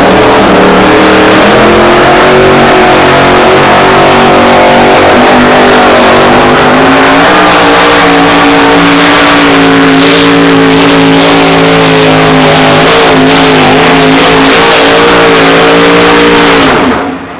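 Modified two-wheel-drive pulling truck's engine running flat out on a pull, its pitch holding high and slowly climbing, then dropping away sharply near the end.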